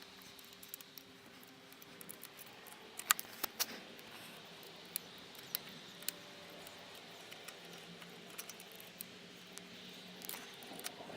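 Scattered metal clicks and clinks of a spanner and Allen key working the bolts of a motorcycle exhaust hanger, with the sharpest click about three seconds in.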